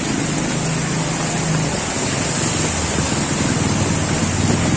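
Steady hiss of rain and rushing water, with a motor vehicle's engine running close by as a low hum and pulse.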